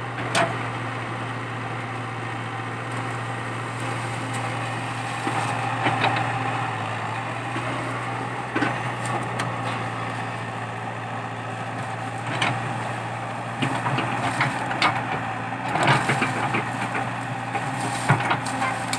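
Komatsu PC80 excavator's diesel engine running steadily, with scattered sharp cracks and snaps of wood as eucalyptus stumps and roots are broken out, coming more often in the second half.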